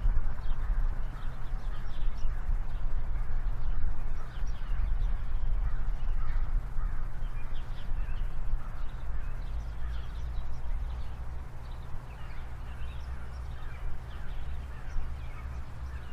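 Freight train rolling past: a steady low rumble that slowly eases off, with many short high chirps or squeaks scattered over it.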